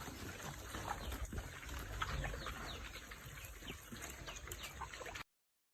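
Small birds chirping in quick short downward notes over a low rumble; the sound cuts off abruptly about five seconds in.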